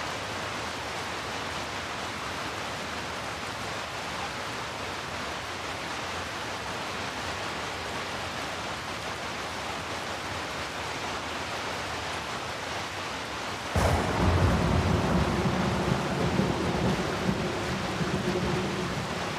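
Steady rain falling, an even hiss. About fourteen seconds in, thunder breaks in suddenly with a sharp crack and goes on as a deep, louder rumble.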